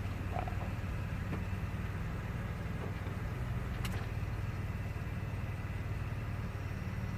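Steady low hum of a running motor, with a few faint ticks.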